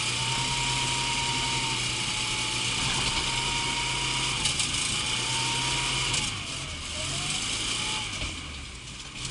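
Zhiguli car engine running steadily, its pitch dipping and coming back up around six to seven seconds in.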